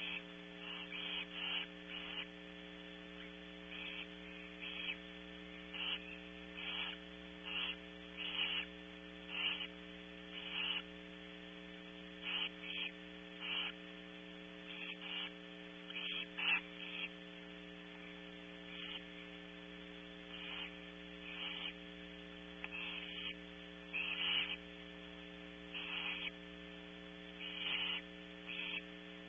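Barn owl nestlings giving short, raspy hissing begging calls, repeated irregularly about once a second, over a steady electrical hum.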